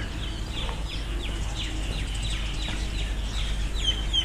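A bird calling over and over: short, high, falling chirps, about three a second.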